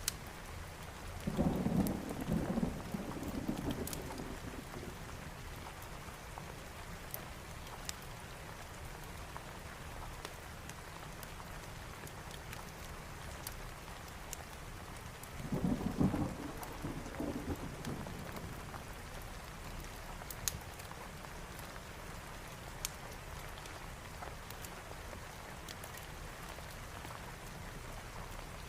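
Steady rain with two rolls of thunder, one about a second in and one about fifteen seconds in, each dying away over two or three seconds. Scattered faint sharp ticks sound over the rain.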